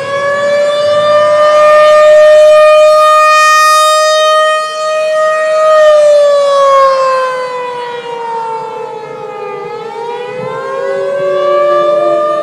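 Civil defense warning siren wailing: it holds a high pitch, winds slowly down over several seconds, then starts rising again near the end.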